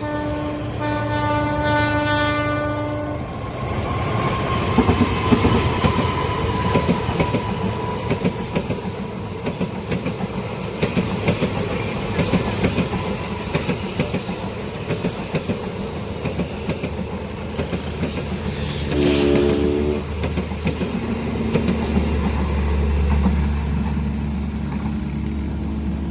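Train passing a level crossing: a locomotive horn sounds for about two seconds near the start, then the wheels clatter rapidly over the rails as the carriages go by. A short wavering pitched tone comes about three quarters of the way through, and a low steady rumble near the end.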